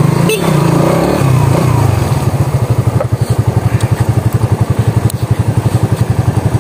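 Motorcycle engine running close by, uneven for the first two seconds, then settling into a fast, even idle chug.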